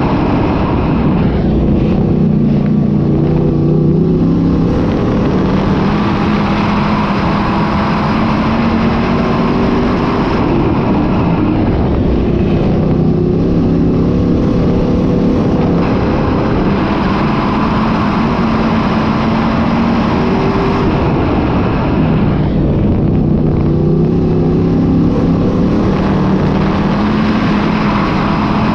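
Dirt-track modified race car engines running on the track, loud and continuous. The engine note shifts down and back up in a repeating cycle about every ten seconds.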